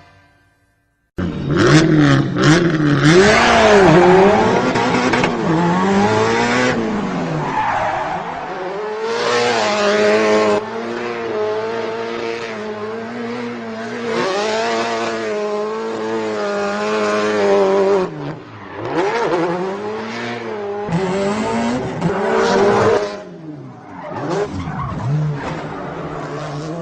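Motor vehicle engine revving hard, its pitch repeatedly climbing and dropping, starting after about a second of silence and broken by several abrupt cuts.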